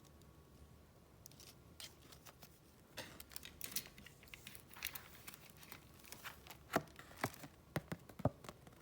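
Paper and wrapping handled up close: rustling and crinkling that start after about a second and grow busier, with a few sharp taps toward the end.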